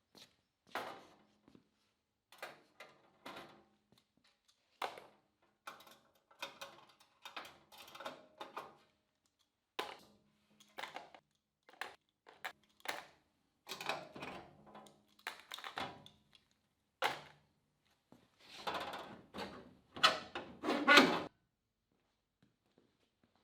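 Irregular knocks, taps and clatter of hands-on metal bodywork on panels and tools. The sounds come in uneven bursts, the loudest knocks falling near the end, and then stop abruptly.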